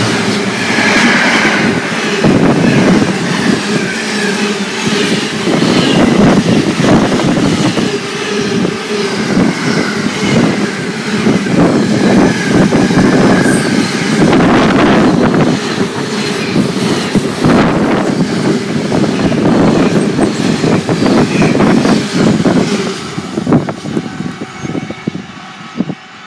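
A GB Railfreight Class 66 diesel locomotive and a long train of container wagons passing through close by. There is a loud, steady rumble with wheels clattering and wagons rattling over the rail joints, which dies away near the end as the last wagons go by.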